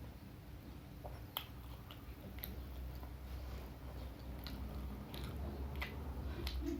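A person chewing and biting fried vegetable fritters (bakwan) and raw garlic close to the microphone, with irregular sharp mouth clicks over a steady low hum.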